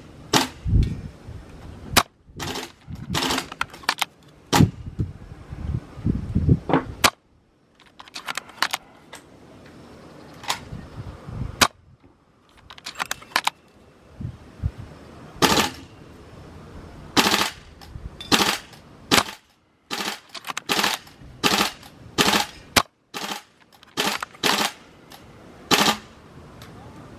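Tokyo Marui VSR-ONE spring-powered airsoft bolt-action rifle being fired and its bolt worked: a long, uneven run of sharp clacks and clicks. Gusty wind rumbles on the microphone at times.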